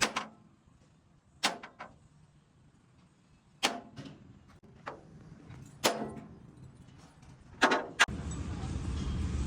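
Hammer striking metal: sharp blows about every two seconds, each with a short ring, the last two close together. About eight seconds in, a steady low rumble starts.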